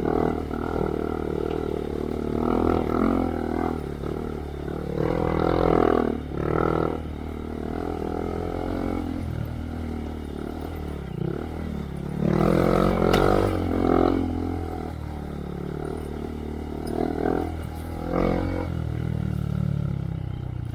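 Honda Monkey's small single-cylinder engine through a Yoshimura RS3 exhaust with spark arrestor, ridden on a dirt trail. It runs steadily and surges on the throttle several times, then backs off.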